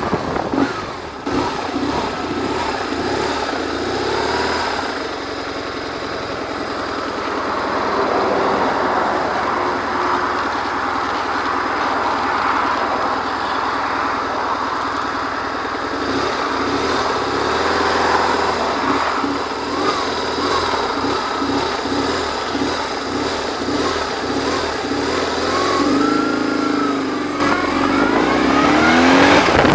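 BMW R1100R's boxer twin engine running on the road under heavy wind noise on the microphone. Near the end its pitch rises and falls several times as the revs build and drop.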